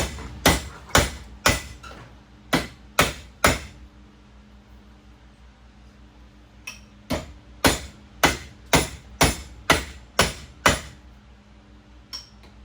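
Hammer blows on metal, struck in steady runs of about two a second with a pause of a few seconds in the middle, each blow ringing briefly.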